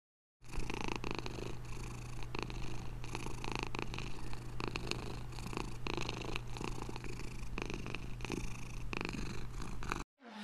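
Domestic cat purring steadily, starting about half a second in and stopping just before the end.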